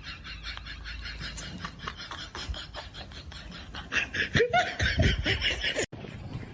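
A person laughing in a quick run of short bursts, which cuts off suddenly near the end.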